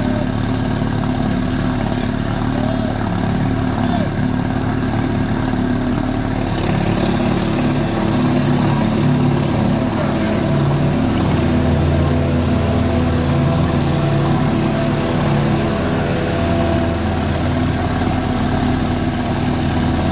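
1952 Mercury KF5 two-stroke outboard motor running steadily under way, with a note that grows a little fuller and louder about halfway through.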